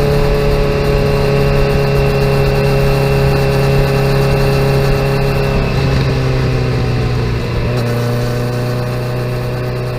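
A 2017 Kawasaki Z900's inline-four running through a full aftermarket exhaust while riding, holding steady revs. About six seconds in the engine note drops a little, and then the sound slowly gets quieter.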